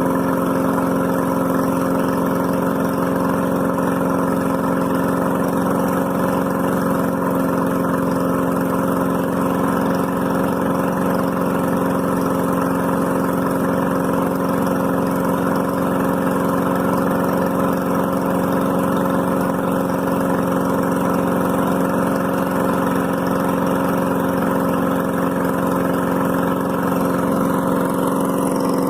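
Engine idling steadily after a cold start, holding an even pitch and level. The owner says it is running oddly, as if it is not getting enough fuel.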